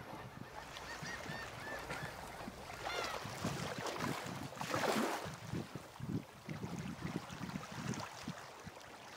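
Faint, scattered bird calls, a few short arching calls and one louder call about five seconds in, over a low, uneven outdoor background noise.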